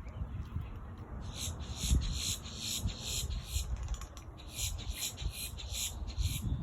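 Rhythmic high-pitched animal calls, a regular pulse repeating about three times a second, starting about a second in with a short break midway.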